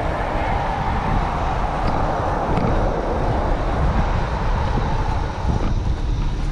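Wind buffeting the microphone and tyre rolling noise from a bicycle being ridden, a steady low rumble with a hiss on top that drops away near the end.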